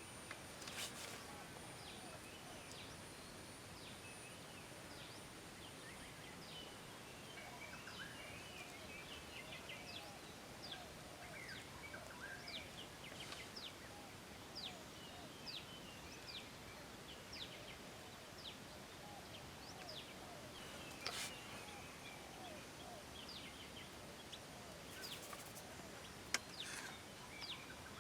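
Birds calling in quiet open-air ambience: a run of short, high chirps that sweep downward, roughly one a second, among lower arched calls, over a faint steady high-pitched hum. A few brief clicks are heard, one near the start and two in the last third.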